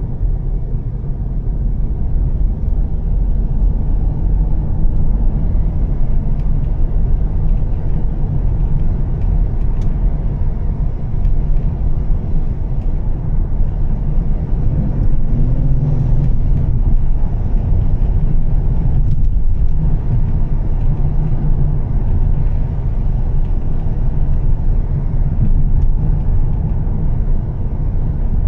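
Volvo S60 T6's turbocharged inline-six with an aftermarket Heico exhaust, heard while driving, with tyre and road noise. A steady low drone that swells briefly about halfway through.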